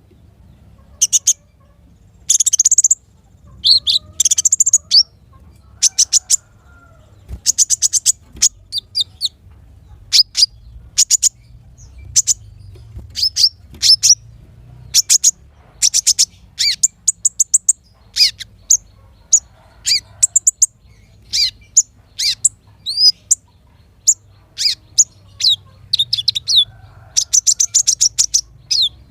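Small songbirds chirping and trilling: a rapid run of short, high-pitched notes and quick trills in clusters, some rising or falling sharply.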